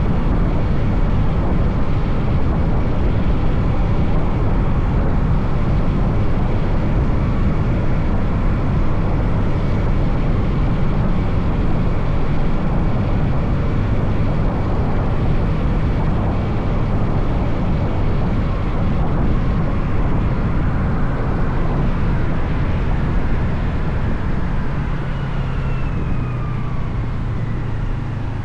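Motorcycle riding through city streets, heard from on the bike: a steady rush of engine, wind and road noise that gets slightly quieter near the end.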